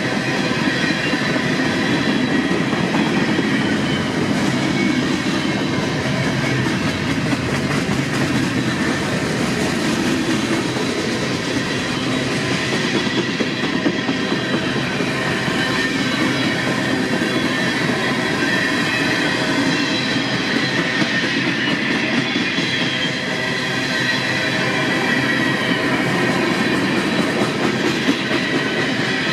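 Freight train cars rolling steadily past on the rails, with faint high steady squealing from the wheels over the rumble.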